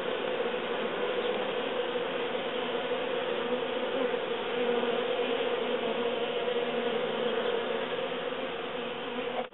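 Many honeybees buzzing steadily around an opened hive, a dense, continuous hum.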